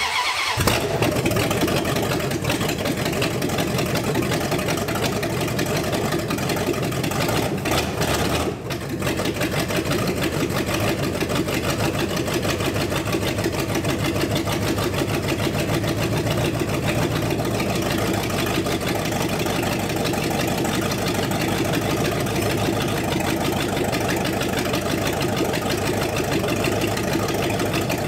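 New carbureted engine in an old Dodge police car, just started and running steadily, with its spark plug wires rearranged to give it more ignition timing; it runs great. The level dips briefly about eight seconds in.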